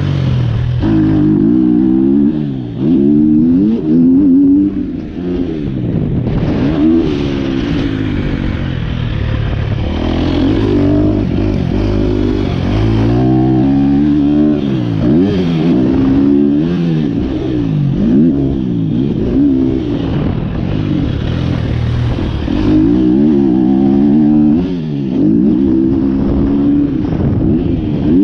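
A 2023 KTM 250 SX-F's single-cylinder four-stroke engine through an Akrapovic Evolution Line exhaust. It revs hard and rolls off again and again, its pitch climbing and dropping every second or two as the bike accelerates, shifts and slows for corners.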